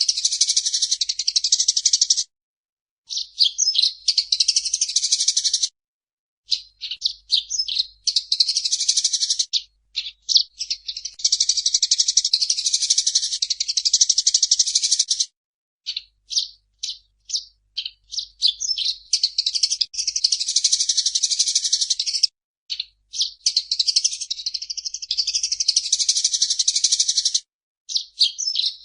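Eurasian tree sparrow chattering in long runs of fast, high chirps, broken by several short silent gaps.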